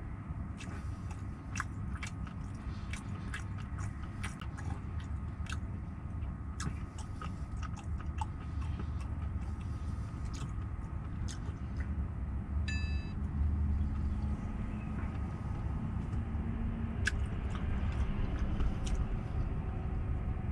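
Close-up chewing and crunching of crispy fried chicken, with sharp crunchy clicks scattered throughout, over a steady low rumble.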